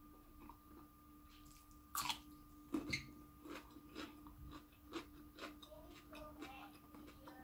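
A person chewing and biting food close to the microphone: scattered wet clicks and crunches, the loudest about two and three seconds in, from raw vegetables eaten with salmon larb. A faint steady hum sits underneath.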